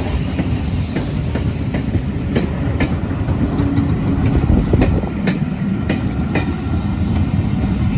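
Passenger coaches of a steam-hauled special rolling slowly past over a level crossing, slowing to stop. The wheels click unevenly over the rail joints above a steady low rumble.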